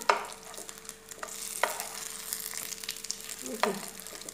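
Spinach-leaf vadi rolls sizzling in shallow oil in a non-stick pan, with a few sharp knocks of the wooden spatula against the pan as the rolls are turned over.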